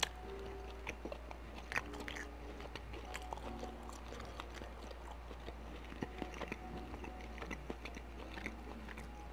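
A person chewing a mouthful of spicy noodles close to the microphone, with many small irregular mouth clicks and smacks over a steady low hum.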